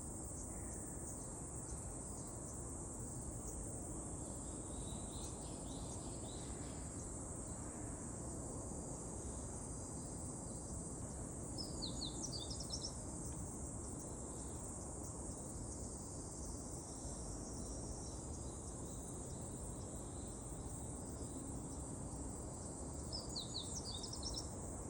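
Birds chirping in two short bursts of quick notes, about twelve seconds in and again near the end, over a steady high insect-like buzz and a low background rumble.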